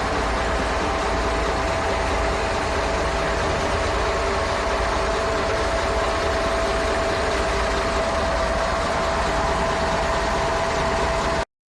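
MAN F2000 19.422 truck's four-stroke diesel engine idling steadily, with a constant low rumble and a steady hum; the sound cuts off abruptly near the end.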